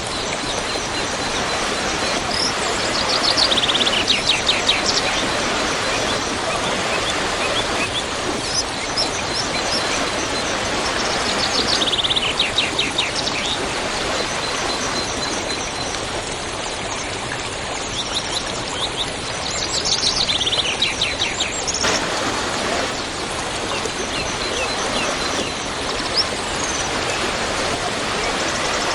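Waterfall's steady rush of falling water, with a bird singing over it three times, each a rapid trill about a second long that drops in pitch, and faint high chirps between.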